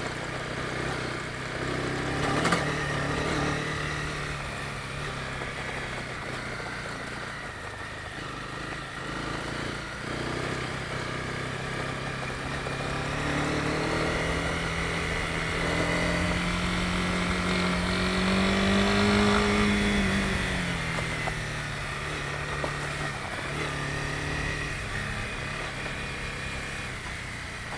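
Honda CB250R single-cylinder engine running under way, its revs climbing gradually from about halfway through and dropping back a few seconds later. A single sharp knock about two and a half seconds in.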